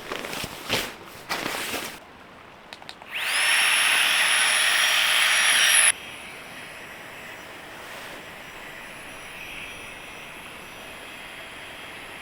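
Rustling and handling noises, then a small high-speed electric motor that spins up about three seconds in, runs with a steady whirr and high whine for nearly three seconds, and cuts off suddenly.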